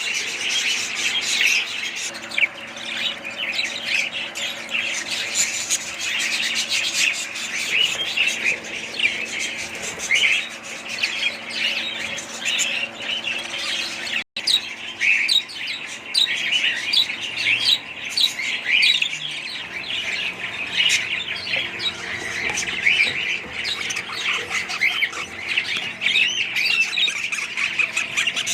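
Many budgerigars chattering and squawking at once, a dense, continuous mass of overlapping chirps, broken by a momentary gap about halfway through.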